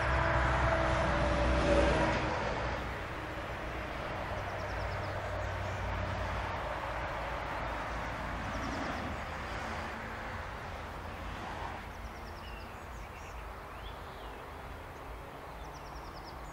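Electric train running away down the line, its rumble and steady motor whine fading out over the first two seconds. After that there is a low steady rumble, with birds chirping now and then.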